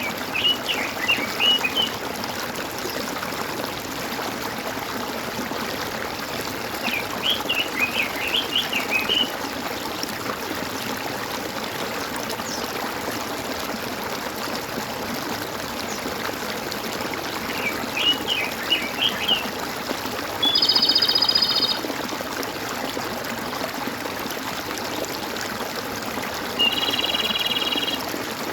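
Water trickling and gurgling steadily, as of a small stream, with birds singing over it: three short twittering phrases and, later, two held calls of steady pitch.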